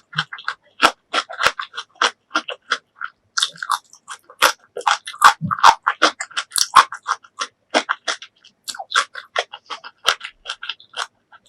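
Close-miked chewing and wet mouth smacks of a person eating: a quick, irregular run of sharp clicks, several a second.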